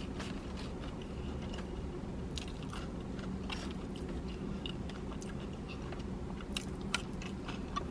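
A person chewing and biting fast food close to the microphone, with soft wet mouth sounds and scattered short crunches and clicks.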